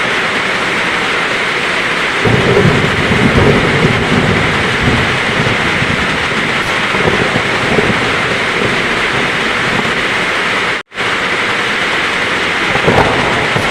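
Heavy rain pouring steadily with thunder rumbling low, loudest from about two to five seconds in. The sound cuts out completely for a split second about eleven seconds in.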